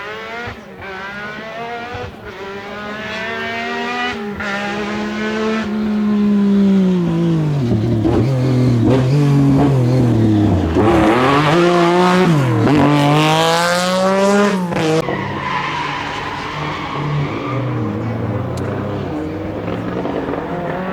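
Rally car engine at high revs, the pitch rising and dropping several times as the driver works the throttle and gears. It grows louder to a peak in the middle, then drops away about three quarters of the way through, leaving a rougher hiss with the engine lower.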